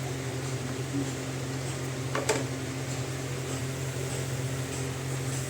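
Steady low machine hum, with a single sharp clink about two seconds in.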